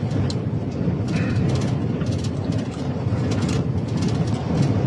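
Heavy truck moving at speed inside the cab: steady engine, road and wind rumble, with scattered sharp ticks over it.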